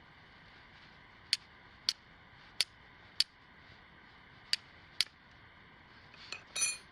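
Flint struck against a steel striker six times, sharp separate clicks about half a second to a second apart, throwing sparks onto char cloth to light a jute-twine tinder bundle. Near the end comes a brief ringing metallic clink.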